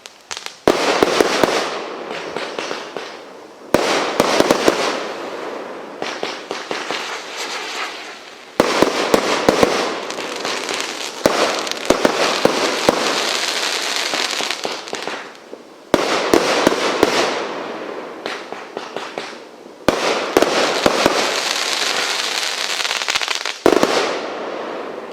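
Treasure Chest consumer firework cake firing a sequence of shots: about seven loud bangs a few seconds apart, each followed by a fading spray of crackling.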